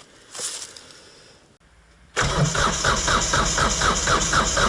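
About two seconds in, the starter motor of a Kubota B-series compact tractor's diesel engine suddenly begins cranking, with a steady rhythmic chug of about four to five compression pulses a second. The engine does not fire: the summer diesel in it has gelled in the frost.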